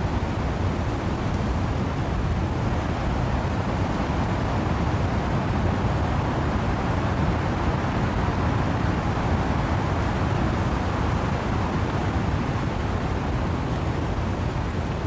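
Steady, deep rush of wind and rain through trees, even throughout with no single gusts or drops standing out.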